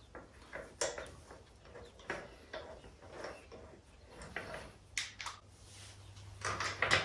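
Scattered metallic clicks and knocks of a wheel and its lug bolts being handled and threaded by hand while the wheel is refitted, with the loudest clatter near the end.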